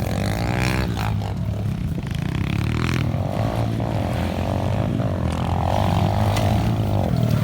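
Pit bike engines running, with a steady low hum and a higher engine note revving up and down a few times.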